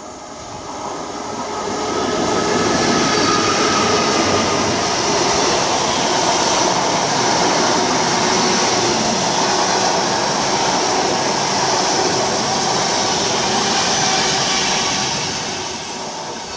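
A loco-hauled intercity train of Mark 3 coaches running through the station at speed: a steady rush of wheels on rail that builds over about two seconds as it arrives, holds loud while the coaches pass, and dies away near the end as it recedes.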